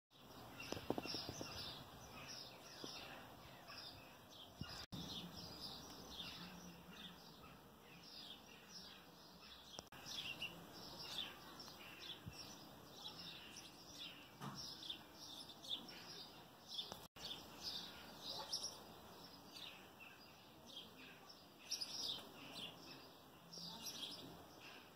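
Small birds chirping and singing almost without pause: quick short high notes, faint, overlapping one another. The sound cuts out for a split second twice.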